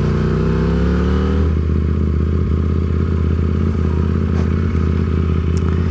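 KTM RC8C race bike's parallel-twin engine pulling away under throttle, rising in pitch for about a second and a half, then running steadily.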